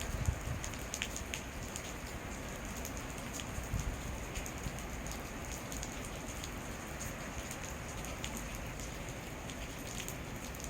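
Steady rain falling, a constant hiss with many scattered drops ticking on surfaces.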